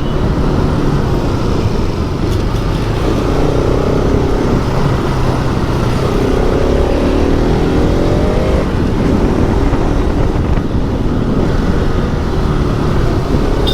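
Motorcycle engine running under way, with wind and road noise on the mic and surrounding traffic. The engine pitch rises a couple of times as it accelerates.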